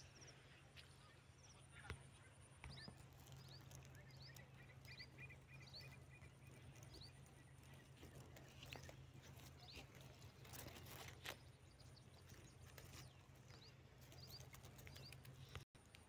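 Faint outdoor ambience: scattered short bird chirps, with a quick run of chirps a few seconds in, over a low steady hum and a few light clicks.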